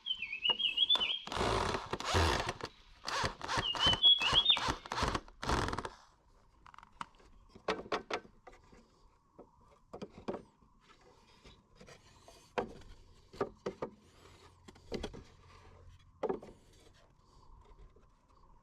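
Hand tool working wood: a run of rough scraping strokes for the first six seconds, then scattered light knocks and taps. A bird chirps briefly at the start and again about four seconds in.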